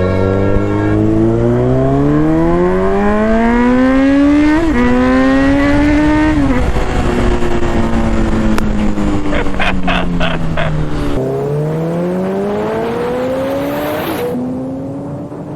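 Kawasaki Z900's inline-four engine pulling hard under acceleration on the move, its pitch rising steadily for about six seconds before easing off. It drops sharply about eleven seconds in and climbs again, with wind rushing past.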